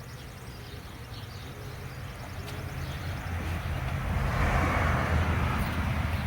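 A motor vehicle's engine running with a low hum and rushing noise, growing louder over several seconds as it approaches.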